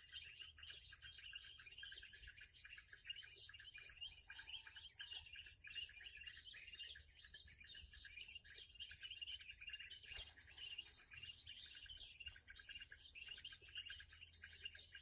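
Faint, dense, rapid chirping of small bird calls with no pause, most likely a lure recording played through a small cheap speaker to draw in the birds.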